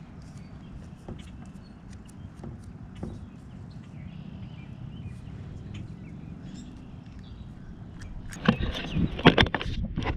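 Low, steady outdoor background noise with scattered faint ticks, then loud irregular knocking and scraping for the last second and a half or so.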